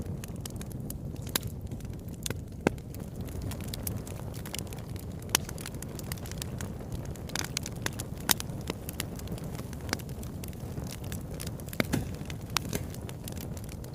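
Fireplace fire crackling, with irregular sharp pops and snaps over a steady low rumble of the flames; a handful of the pops stand out louder.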